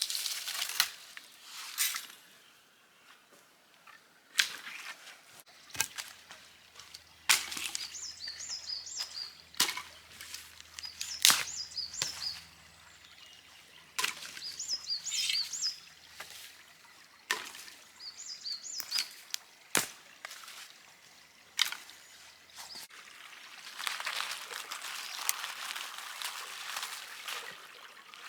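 Wood campfire crackling with sharp, irregular pops and snaps. A small bird repeats a short high chirping phrase about four times in the middle, under a faint low hum, and a steadier hiss rises near the end.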